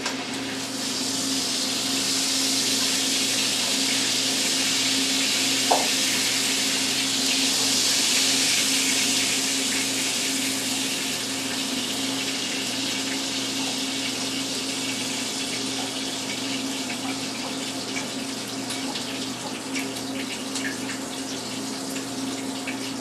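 Leftover bacon fat sizzling in a frying pan with the bacon just lifted out, a steady hiss that eases off after about ten seconds, over a constant low hum.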